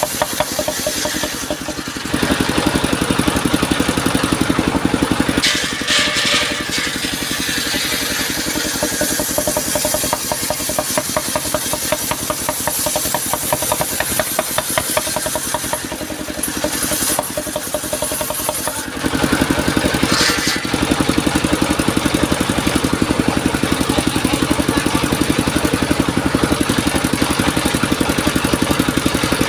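Engine driving a circular-saw sawmill, running steadily with a fast, even pulse; it grows louder about two seconds in and again about two-thirds of the way through. Short high hissing bursts come three times over the engine.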